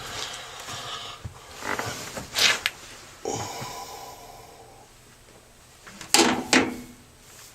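Clattering and scraping of parts being handled, with two loud sharp clunks about six seconds in.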